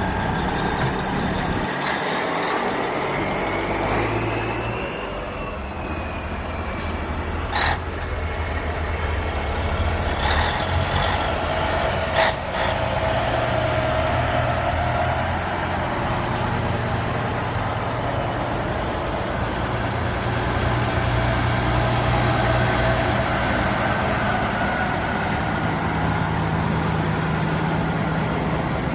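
Truck engine running steadily, with a few sharp short sounds about eight and twelve seconds in.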